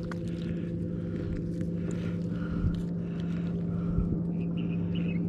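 A steady, even engine drone at constant speed with a fixed low pitch.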